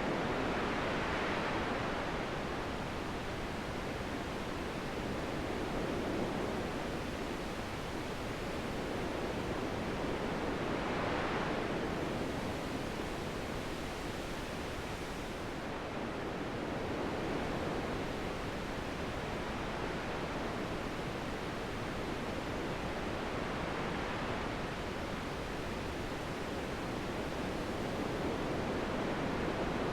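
Wind blowing in gusts, a steady rushing noise that swells and eases every few seconds.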